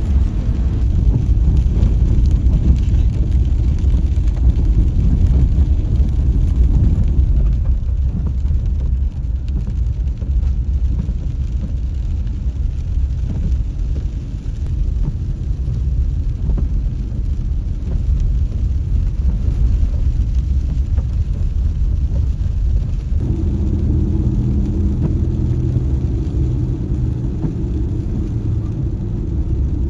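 Car driving: a loud, steady low rumble of road and engine noise, with a steady hum joining in about two-thirds of the way through.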